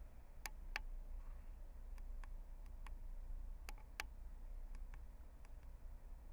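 About a dozen sharp, irregular clicks, bunched in the first five seconds, over a low steady hum.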